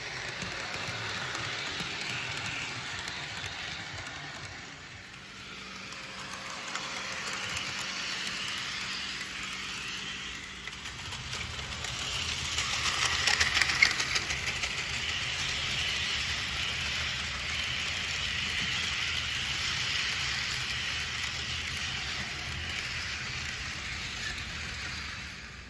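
Model train running on a layout, its rolling noise swelling to a peak about halfway through as it passes closest, then carrying on steadily over a faint low hum.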